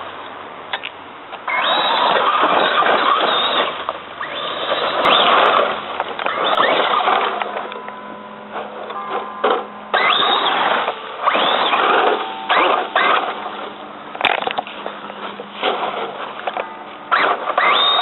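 Traxxas Slash 4x4 RC truck's brushless electric motor whining in repeated bursts as the truck accelerates and backs off, with its tyres on dirt and rocks; the whine rises and falls with each burst.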